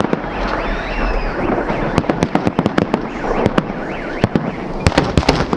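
Festive fireworks salute: many sharp, irregular bangs and crackles from bursting shells over a steady rumbling background.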